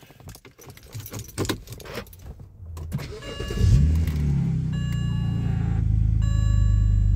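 BMW N52 straight-six, now fitted with an N54 intake manifold, cranked by the starter and catching a little over three seconds in, then idling steadily. Light clicks and rattles come before the start, and a repeating electronic tone sounds on and off over the idle.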